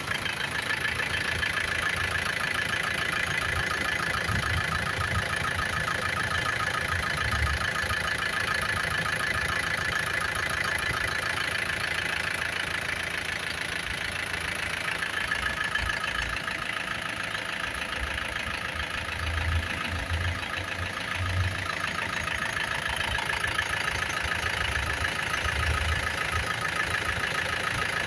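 2013 Isuzu Sportivo's diesel engine idling steadily, with a fast, even clatter.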